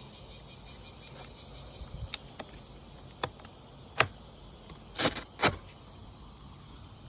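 Faint steady outdoor background with a few separate sharp clicks or taps, then two short, louder rustling scrapes about five seconds in.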